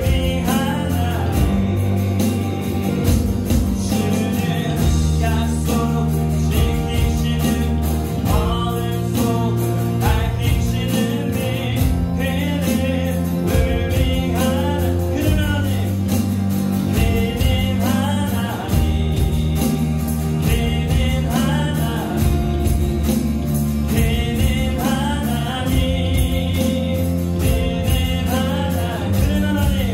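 A live worship band plays a gospel song: electronic drums keep a steady beat under bass guitar, keyboard and acoustic guitar, with a sung vocal line over the top.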